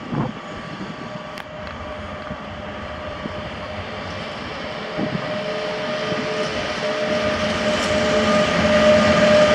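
Bombardier Traxx electric locomotive hauling a train of tank wagons approaches and draws near, with a steady whine over the rolling rumble, growing louder throughout.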